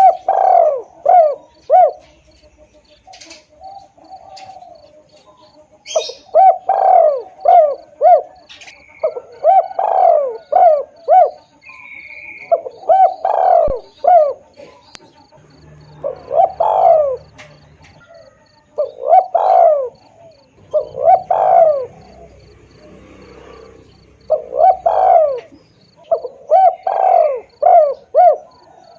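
Spotted dove cooing over and over, about nine phrases, each a strong first coo followed by three or four shorter ones. A faint steady insect chirring runs beneath, with a few higher bird chirps.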